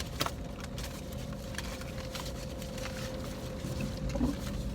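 Steady low hum with a faint held whine, like a vehicle's cabin at idle, with a sharp click about a quarter second in and a few light ticks.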